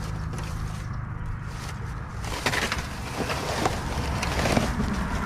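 Crunching and crackling of footsteps and rustling through dry vegetation, starting a little over two seconds in, over a steady low rumble.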